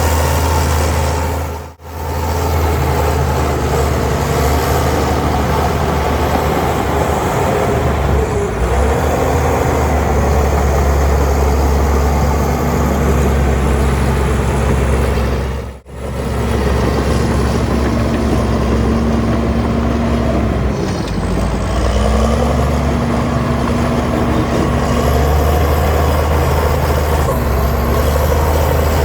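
Heavy diesel engine of earthmoving machinery running under load, its pitch shifting up and down as the machine works. The sound cuts out briefly twice.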